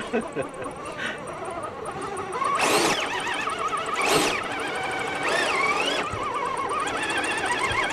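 Small electric motor and gears of an RC rock-crawler truck whining, the pitch rising and falling with the throttle. Two short bursts of hiss come about 3 and 4 seconds in.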